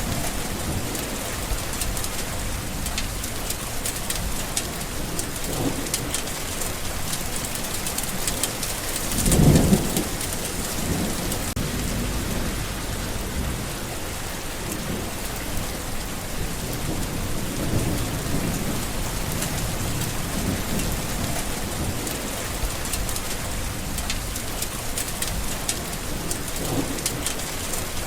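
Steady rain falling, with many close drops ticking. About a third of the way in a short, low rumble of thunder swells up, the loudest moment, with fainter low rumbles later on.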